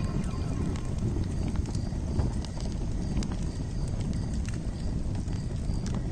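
Campfire crackling: irregular pops and snaps over a steady low rumble.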